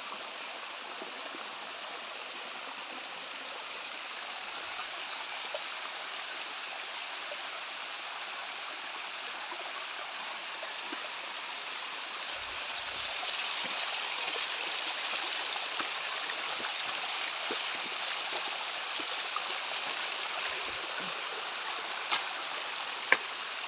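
Low waterfall rushing and splashing over rocks, a steady sound of falling water that swells a little about halfway through. Two sharp clicks near the end.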